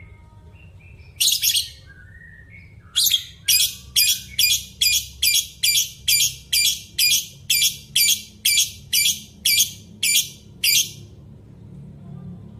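A bird calling harshly over and over: one longer call, then a run of short calls at about two a second lasting some eight seconds, over a low steady rumble.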